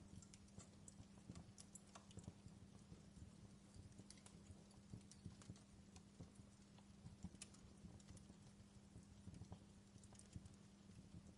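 Fireplace fire crackling faintly, with irregular small pops and snaps over a steady low hum.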